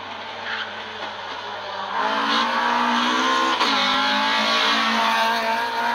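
Toyota Starlet rally car's engine revving hard as the car approaches, getting louder about two seconds in. Its note climbs, drops sharply about three and a half seconds in, then rises again.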